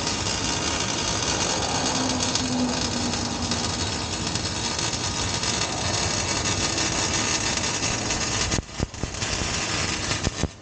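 Electric welding arc crackling and hissing steadily while an exhaust pipe is welded. The arc breaks off briefly near the end, strikes again, and stops.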